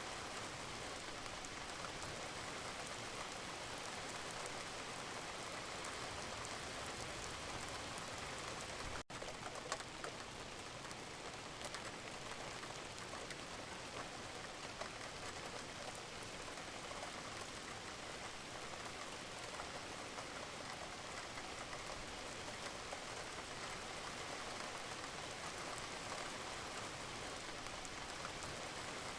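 Steady rain falling, an even hiss of many drops, with a split-second gap about nine seconds in.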